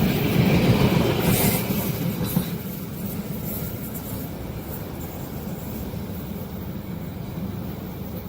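Train passing: loud wheel and car noise with a low rumble for the first couple of seconds, then fading to a steady, quieter rumble as it moves away.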